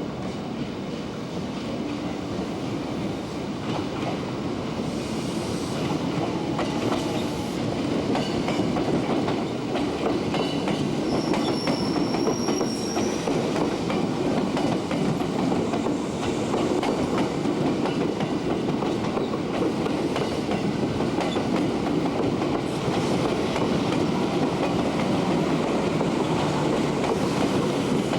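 Jōban Line 203 series electric train running on the rails, its wheels clattering over the rail joints. The sound grows louder over the first several seconds and then runs on steadily, with a brief faint high squeal around the middle.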